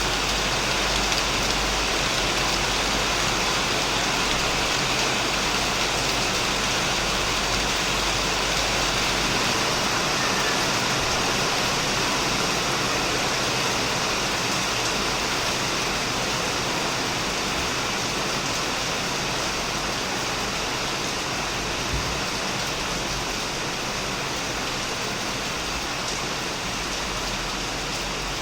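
Heavy rain falling on a shed and the plants around it: a steady, dense hiss of drops. A faint low rumble runs underneath and thins out about ten seconds in.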